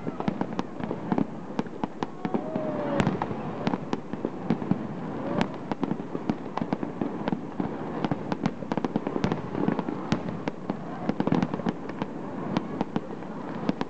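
Fireworks display: a dense, irregular run of bangs and crackling pops, many a second, with a brief whistle about two and a half seconds in.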